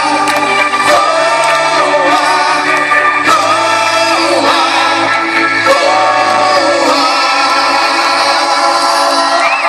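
Live pop band playing with several voices singing long held notes, heard through a mobile phone's microphone.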